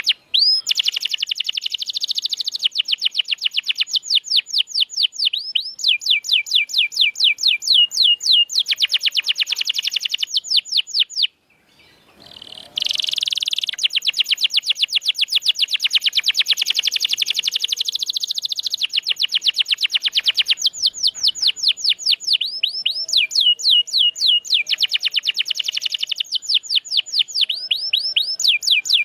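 Domestic canary singing: long, fast trills of rapidly repeated sweeping notes, broken by a short pause about eleven seconds in. This is canary song used as a tutor recording to prompt silent canaries to sing.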